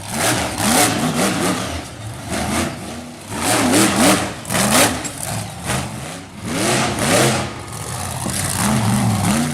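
Monster truck engine revving over and over, its pitch rising and falling about once a second, with loud surges of noise on the throttle bursts.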